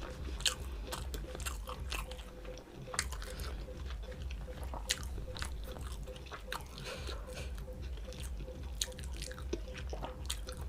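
Close-miked eating: a person chewing and biting through a meal of rice and mutton curry, with frequent irregular crisp clicks and mouth smacks.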